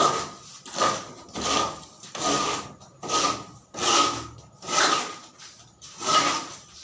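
Hand saw cutting: steady back-and-forth rasping strokes, a little more than one per second.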